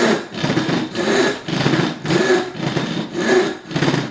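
Freshly sharpened Disston D8 rip saw cutting along the grain of a board by hand, its coarse teeth catching and cutting on each stroke. A rasping stroke repeats about twice a second in an even rhythm.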